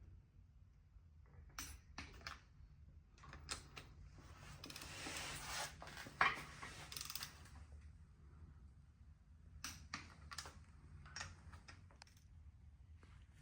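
Hand tools and metal engine parts being handled: scattered clicks and knocks, with a denser stretch of noise lasting about three seconds in the middle and one sharp knock within it.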